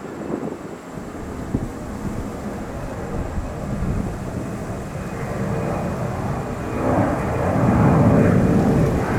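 Jet airliner engines rumbling, growing louder from about halfway through, with a faint steady whine over the rumble.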